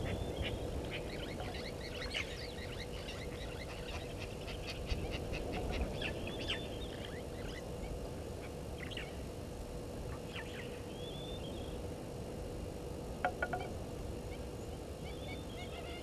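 Grey go-away birds calling: a busy run of short calls in the first several seconds, then scattered calls, over a faint steady hum.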